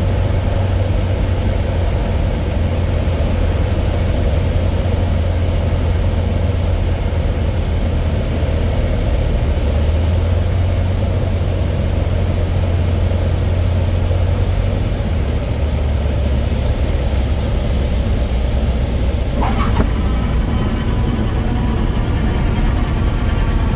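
Cessna 152's four-cylinder engine and propeller droning steadily, heard inside the cabin. Its low note shifts slightly lower about two-thirds of the way through. Near the end a fainter, higher pitched tone joins it.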